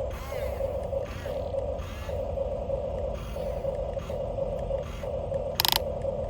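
Small electric motor and gears of a radio-controlled dump truck whirring in short repeated spurts, about one a second, over a low rumble, with a brief loud crackle about five and a half seconds in.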